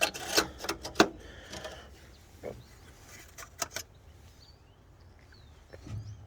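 A quick run of sharp clicks and knocks from parts being handled, closely spaced in the first few seconds. After that, faint high bird chirps in the background.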